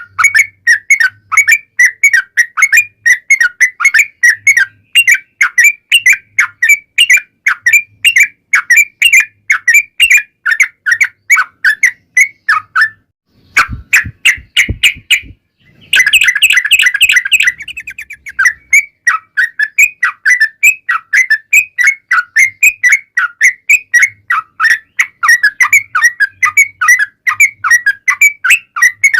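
Yellow-vented bulbul (trucukan) calling in a long, rapid series of sharp chattering notes, about two or three a second. The series breaks off briefly near the middle, where a few low knocks sound, then comes back with a denser burst of notes and carries on.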